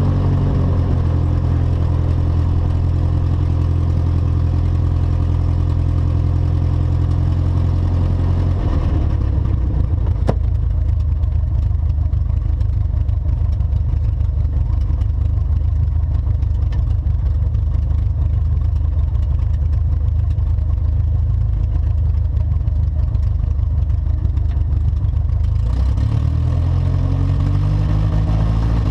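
Aircraft piston engine in a pre-takeoff run-up: it runs steadily at a higher speed, drops about nine seconds in to a lower, rougher-sounding speed, and speeds up again near the end.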